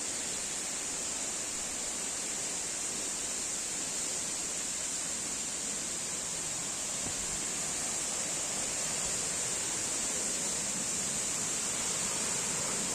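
Steady outdoor forest ambience: an even rushing noise with a steady high-pitched hiss on top, unbroken throughout.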